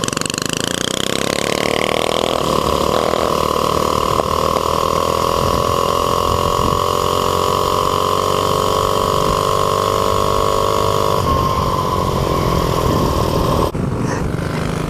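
Mini bike's Predator 212cc single-cylinder four-stroke engine running hard while riding, its pitch climbing over the first couple of seconds and then holding steady at speed, with wind rushing over the microphone.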